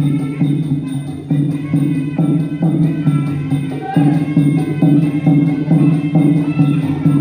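Traditional Khmer boxing ring music: drums and percussion keep a steady, driving rhythm under a held pitched melody.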